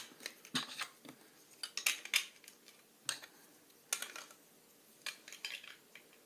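Plastic Lego bricks clicking and clattering as they are handled and pressed together, a run of short, irregular clicks.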